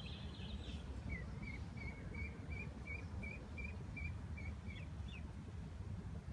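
A bird calling a run of short chirps, about three a second for some three seconds, then two quick rising chirps, over a steady low rumble.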